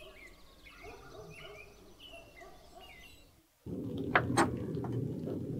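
Birds calling, with short repeated chirps over lower wavering calls. About three and a half seconds in this cuts off sharply to a louder, muffled low noise with two sharp clicks.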